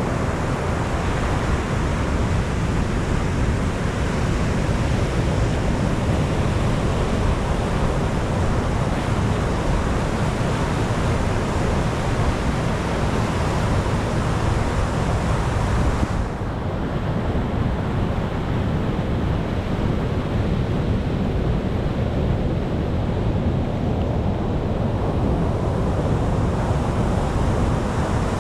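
Sea surf washing as a steady, dense rush of noise. About halfway through it abruptly loses its hiss and turns duller.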